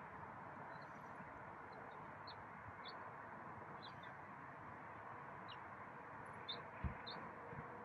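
Short, high bird chirps, repeated every second or so, over a steady faint outdoor hiss, with a soft low thump near the end.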